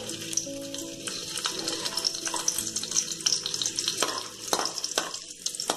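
Chopped ginger sizzling in hot oil in a hammered metal kadai, a steady crackling fry. A metal spoon stirring it knocks against the pan a few times about four to five seconds in.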